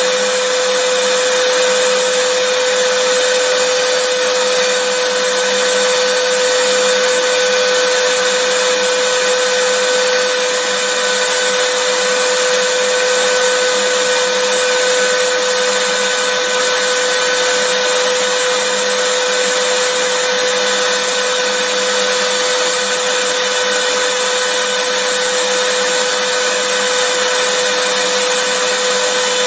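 Vacuum cleaner motor running continuously at a constant speed: a steady rush of air with a steady mid-pitched whine on top.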